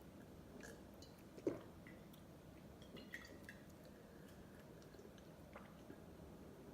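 Faint eating sounds of someone eating ice cream: soft wet mouth clicks and smacks, with one louder smack about a second and a half in.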